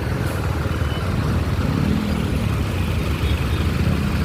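Motorcycle on the move in traffic: its engine runs under a steady deep rumble of wind and road noise, and the engine pitch rises and falls briefly about two seconds in.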